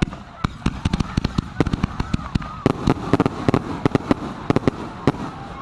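Consumer fireworks going off: a rapid, irregular string of many sharp bangs and pops, several a second.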